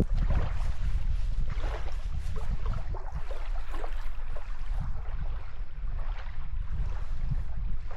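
Water splashing and lapping around a small boat, with wind rumbling on the microphone.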